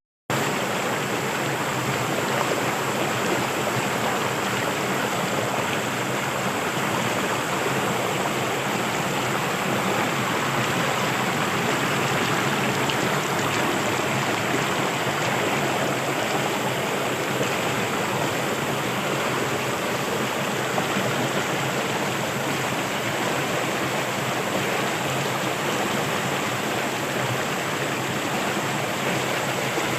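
Steady rushing of flowing water, starting abruptly a moment in and holding an even level throughout.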